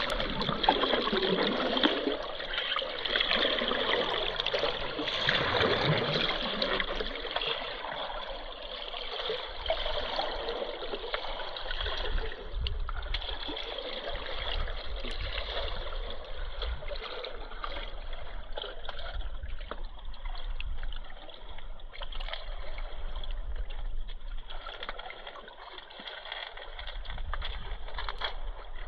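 River water rushing and splashing steadily, a little louder in the first several seconds.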